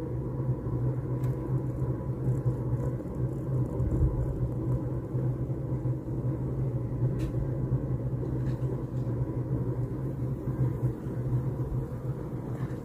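Steady low rumble of a running motor vehicle, with a constant hum.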